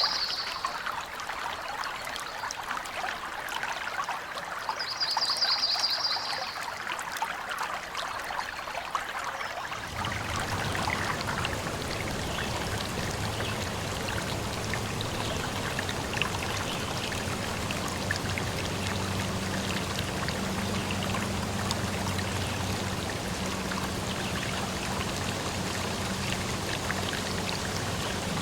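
Flowing water trickling, with a short high trill about five seconds in. About ten seconds in it changes to a fuller, steadier rush of water with a faint low hum underneath.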